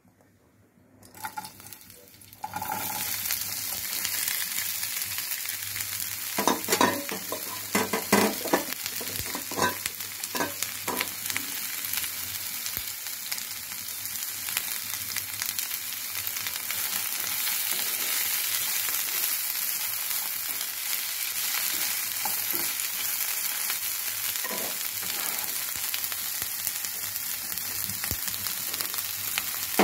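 Chopped green capsicum and garlic sizzling in hot oil in a nonstick frying pan: the sizzle starts suddenly about two and a half seconds in as the pieces go into the oil, then runs steadily. A spatula knocks and scrapes in the pan several times between about six and eleven seconds in while the capsicum is stirred.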